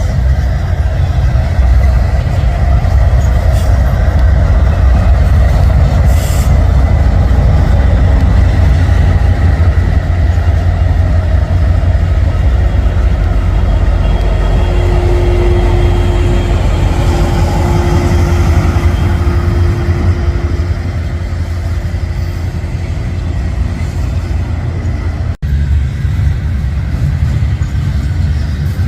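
Union Pacific mid-train DPU diesel locomotives and double-stack container cars of a freight train passing close by: a loud, steady low rumble of engines and wheels on rail, with a faint steady whine about halfway through.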